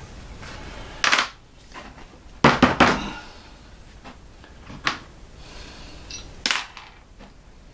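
Small metal parts of a lathe chuck being handled, making a few separate clicks and knocks, with a quick cluster of them about two and a half seconds in.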